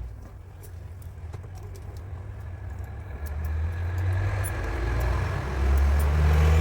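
A motor vehicle's engine running with a low hum, growing steadily louder over several seconds.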